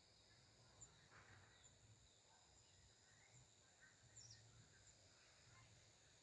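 Near silence: faint outdoor ambience with a steady high insect trill and a few faint, brief bird chirps.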